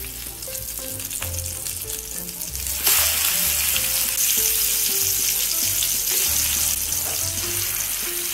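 Salmon fillets frying in melted butter in a nonstick pan, a steady sizzle. About three seconds in the sizzle jumps much louder as the fillets are turned over with a slotted spatula and their raw sides hit the hot butter.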